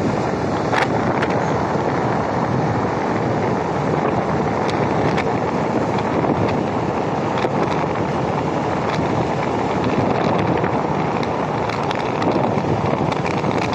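Steady wind rushing over the microphone on a moving Honda Activa 6G scooter, with the scooter's engine and road noise underneath.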